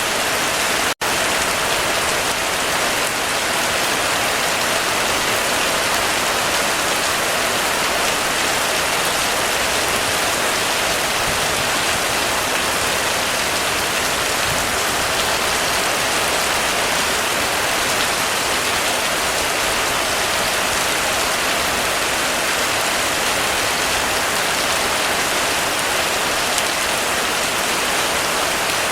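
Heavy rain drumming steadily on a roof, a dense even hiss of drops. A split-second dropout about a second in.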